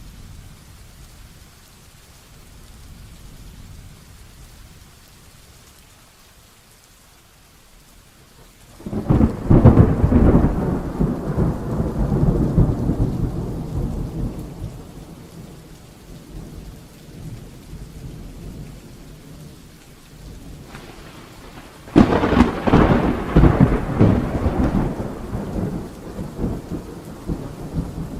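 Heavy rain falling steadily, with two thunderclaps: a crackling clap about nine seconds in that rumbles away over several seconds, then a rumble that swells into a second sharp, loud clap about two-thirds of the way through and fades.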